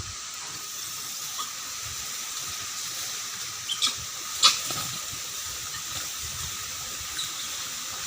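Monkey squeals: two short, sharp cries, the louder about four and a half seconds in, over a steady background hiss.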